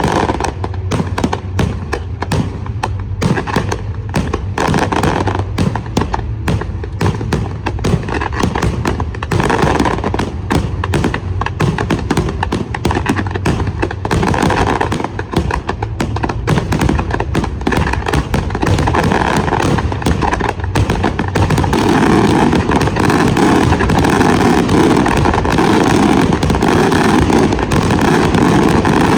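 Fireworks display: a rapid string of cracks and bangs that grows denser about ten seconds in and merges into a near-continuous crackling barrage over the last several seconds.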